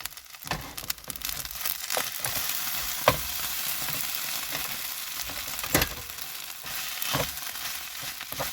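Rice and a spicy sauce sizzling in a frying pan, the sizzle thickening a second or so in. A utensil knocks and scrapes in the pan several times as the food is stirred.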